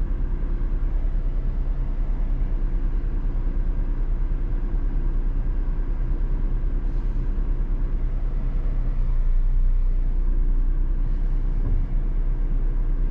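Car engine and road noise heard inside the cabin while driving: a steady low rumble with a faint steady hum, a little louder about nine seconds in.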